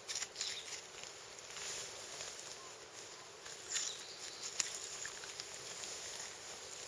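Faint scraping and slicing of a knife blade working through deer hide and meat, with a few short clicks.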